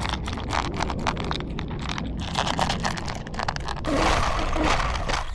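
Toy remote-control car driving across the floor, its small motor and wheels running with a rumble and a rapid run of clicks and scrapes, which turn into a denser rattle near the end.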